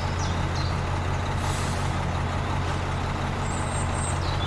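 Vehicle engine running steadily with a deep, even hum, having started just before.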